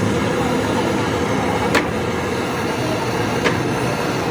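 Steady background motor-vehicle noise, like traffic or a running engine, with two short sharp knocks about a second and a half apart.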